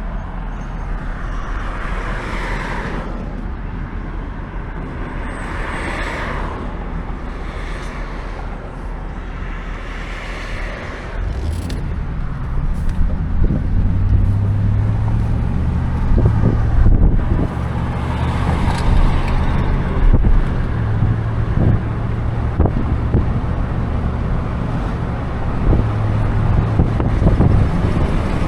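A car running, with engine and road noise. About eleven seconds in, a steady low engine drone comes in and the sound grows louder.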